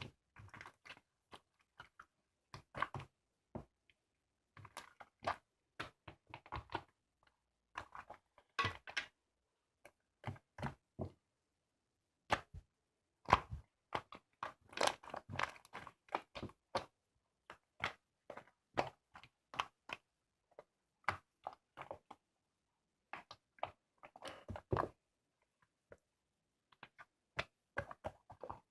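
Homemade slime (액괴) being squeezed and poked by hand: irregular sticky clicks, pops and crackles coming in short clusters, busiest around the middle.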